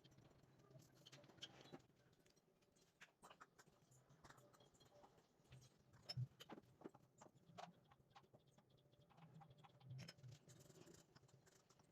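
Near silence with faint, scattered light taps and clicks, a couple of them a little louder around the middle and near the end.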